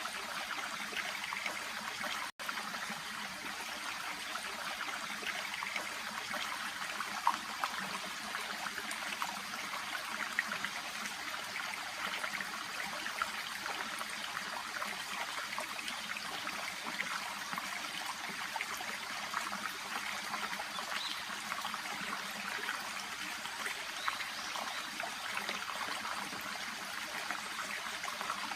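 Shallow babbling brook trickling and gurgling steadily over stones and water plants, with a momentary dropout about two seconds in.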